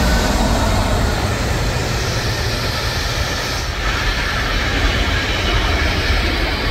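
A train running past on the line, a steady, loud noise of wheels and traction strongest in the low end.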